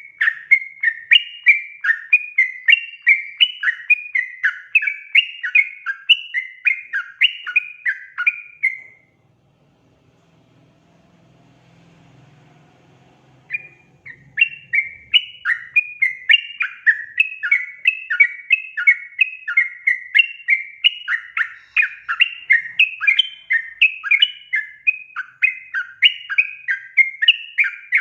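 Yellow-vented bulbul song: a fast, chattering run of bubbly notes. It breaks off about nine seconds in, leaving a few seconds of faint low hum, then starts again.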